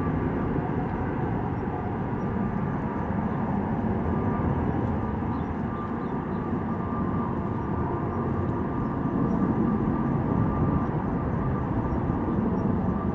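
Boeing 777 airliner's jet engines at takeoff thrust as it departs, a steady deep noise with a faint high whine, growing slightly louder in the second half.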